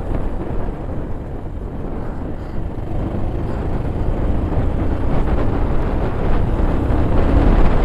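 Motorcycle on the move in street traffic: steady engine and road noise, with wind on the microphone.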